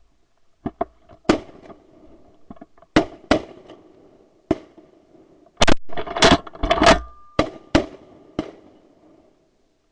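An irregular series of sharp cracks and knocks, about fifteen in all, coming thickest and loudest in a cluster a little past the middle.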